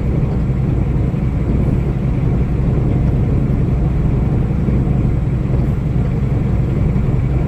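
Steady engine and road rumble heard from inside a moving vehicle's cab, low and even.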